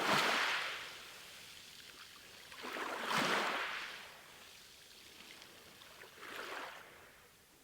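Sea waves washing in: three surges of rushing water about three seconds apart, the first two loudest and the third fainter.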